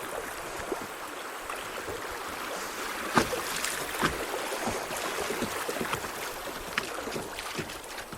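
Kayak running a rocky riffle: a steady rush of water with several sharp knocks as the hull hits rocks, the loudest about three seconds in and another about a second later.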